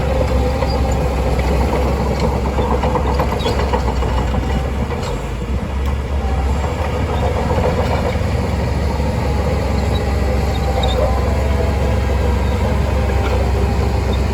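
Shantui DH17C2 crawler bulldozer's diesel engine running steadily with the clatter of its steel tracks, dipping briefly about five seconds in.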